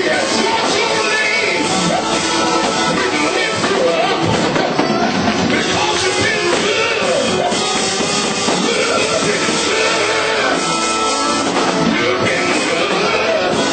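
Loud, fast gospel praise-break music with drums and electric guitar, with voices singing over it.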